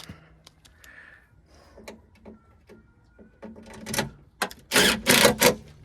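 Scattered light clicks and knocks, then a few loud scraping, rustling noises near the end, from parts being handled as the GMC's door is put back together.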